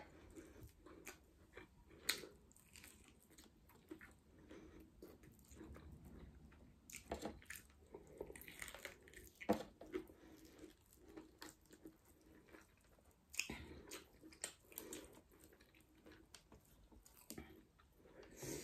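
Close-miked chewing and biting of fried chicken wings: soft, irregular mouth sounds with a few sharper clicks.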